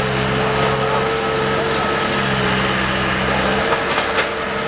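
An engine running steadily with an even hum. Its deepest part drops out about three and a half seconds in, and a few sharp cracks follow near the end.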